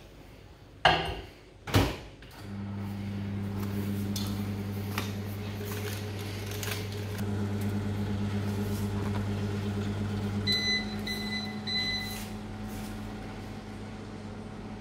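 Microwave oven running with a steady hum, melting a tablespoon of butter, after two sharp clicks near the start. About ten seconds in it gives three short beeps and the deepest part of the hum stops, leaving a fainter hum.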